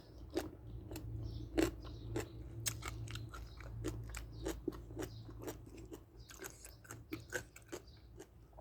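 A person chewing crunchy food close to the microphone, with irregular crisp crunches several times a second over a low steady hum.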